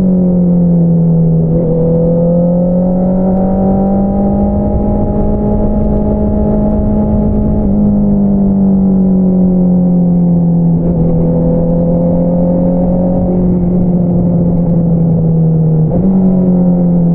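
2022 Honda CBR650R inline-four engine running through an Akrapovič single-outlet exhaust while riding. Its note rises and falls gently, stepping down suddenly about a second and a half in and stepping up suddenly near eight and near sixteen seconds.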